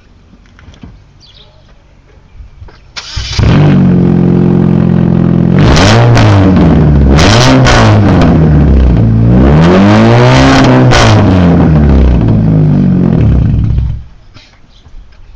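2008 Chevrolet Cobalt SS/NA's 2.4-litre four-cylinder engine, straight-piped with no muffler, loud through the exhaust: it starts about three seconds in, idles, is revved up and back down three times, the last rev the longest, then idles again and stops near the end.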